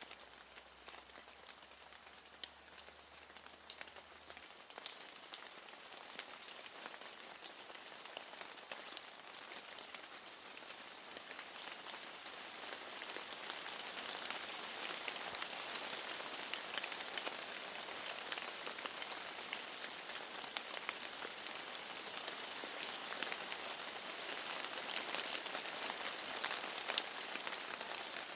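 Steady rain falling, a dense hiss of drops with many small ticks of individual drops. It grows louder over the first dozen seconds or so, then holds steady.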